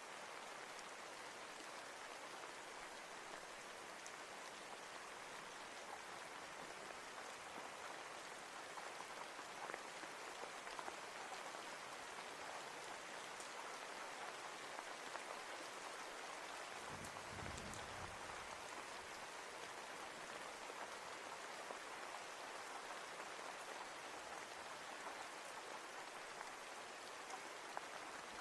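Steady rain falling, an even hiss with scattered drops ticking. Partway through, a brief low rumble of distant thunder.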